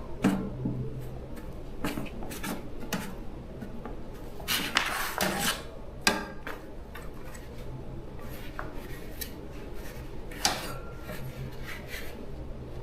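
Small metal parts and tools being handled on a work surface: scattered clinks and taps, with a brief stretch of scraping about five seconds in, over a low steady hum.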